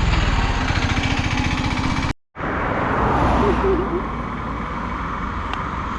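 A vehicle engine runs close by with road rumble and faint voices. The sound drops out for an instant about two seconds in.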